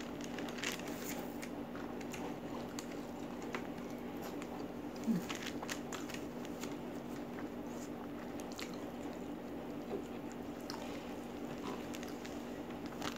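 Close-miked eating sounds: chewing and biting with scattered wet mouth clicks and small crunches as chicken in green chili sambal is eaten by hand. A steady low hum runs underneath.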